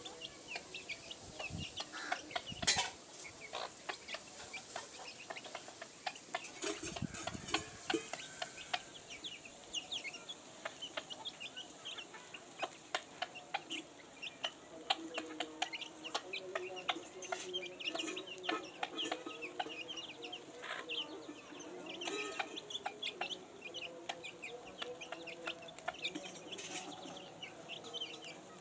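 Chickens: chicks peeping in many short, high chirps, over lower clucking. A single sharp knock about two and a half seconds in.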